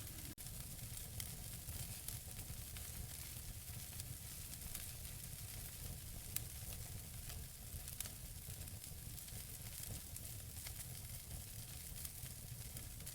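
Wood fire crackling in a fireplace: a steady hiss and low rumble of burning logs with many small pops, and two sharper snaps about six and eight seconds in. The sound cuts out for an instant about half a second in.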